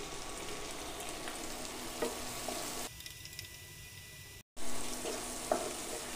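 Chopped onions and green chillies sizzling in hot oil in a nonstick wok, stirred with a wooden spatula that knocks lightly against the pan a couple of times. The sound dips and cuts out for a moment past the middle, then the sizzling carries on.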